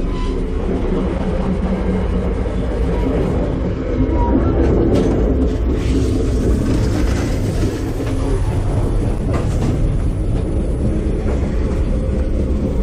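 Passenger train running, heard from inside a rail car: a steady, loud rumble of wheels on the rails, with a few faint knocks along the way.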